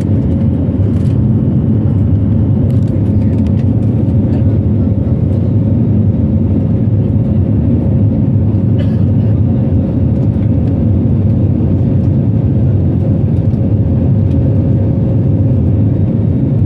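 Airliner cabin noise: a steady, loud low engine rumble with a faint steady whine above it.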